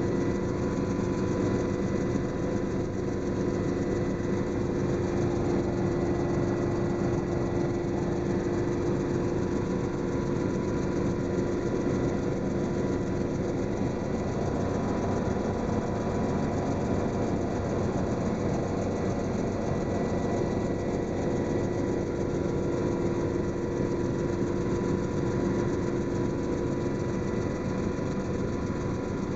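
Helicopter in steady cruising flight, its engine and rotor running evenly with a constant deep hum and a thin, steady high whine.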